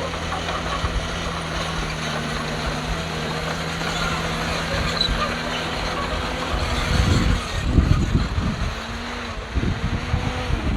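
Diesel engine of heavy earthmoving machinery running steadily. About two-thirds of the way in, loud irregular low buffeting of wind on the microphone takes over.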